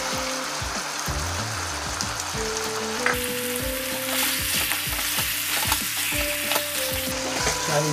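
Chicken pieces frying in hot oil in a pan, sizzling steadily as a spice paste is added and stirred in. A spatula scrapes and clicks against the pan, and the sizzle grows louder about three seconds in as the stirring starts.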